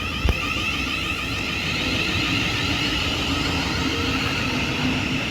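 Thameslink Class 700 electric multiple unit running through the station: a steady rushing noise of wheels and traction equipment with a faint whine, and a sharp click just after the start.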